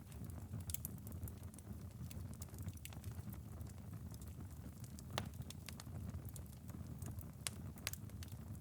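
Wood-burning fireplace ember bed crackling after a long burn: scattered small pops and ticks over a low steady rumble, with a sharper pop about five seconds in.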